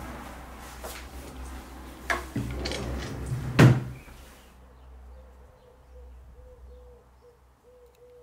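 Household knocks and clicks, then a loud thud like a door or cupboard door shutting about three and a half seconds in. After that it goes much quieter, with a faint repeating note.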